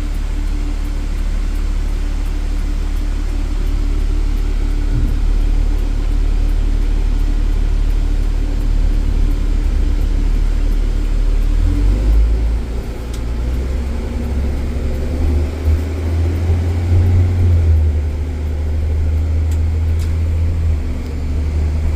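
Straight truck's engine running steadily while driving, with road noise. About halfway through, the engine note steps up in pitch.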